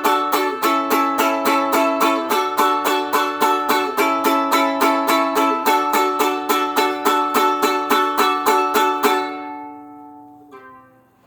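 Music: a string instrument strummed steadily, about four strums a second, moving through a few chords. Near the end the strumming stops and the last chord rings out, with one soft final strum.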